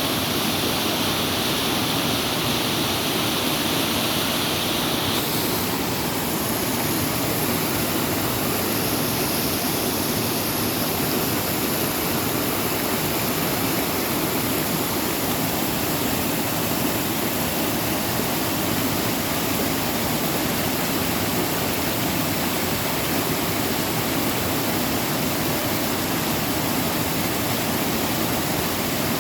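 Waterfall: water falling and splashing in a steady, even rush. About five seconds in, the hiss in the upper range shifts in tone.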